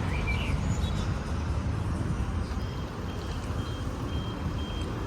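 City street traffic rumbling, with a few bird chirps near the start. From about halfway, a series of short, evenly spaced high electronic beeps, about two a second.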